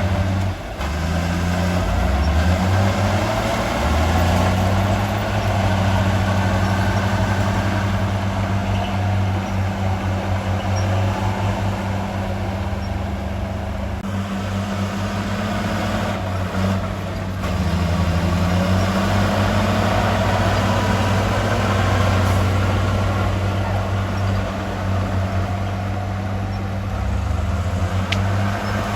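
Heavy diesel engine of earthmoving machinery running under load, its pitch rising and falling several times as the revs change, over a steady mechanical clatter.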